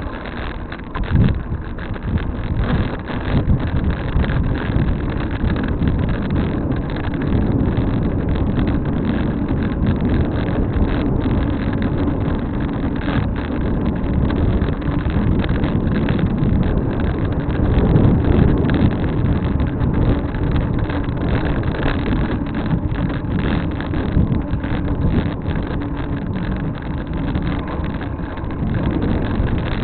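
Steady wind rush and rumble on the microphone of a camera riding along on a moving bicycle, with no clear single event.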